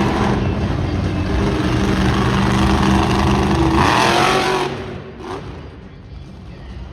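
Monster truck engine revving hard and loud, then dropping away about five seconds in.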